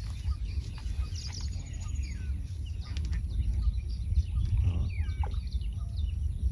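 Birds chirping, many short downward-sliding chirps scattered throughout, over a steady low rumble.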